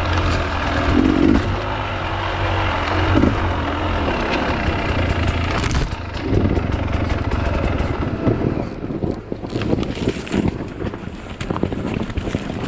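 Enduro motorcycle engine running on the trail, low and steady with throttle swells in the first half. From about halfway it turns choppier and rougher, with scraping from the ground.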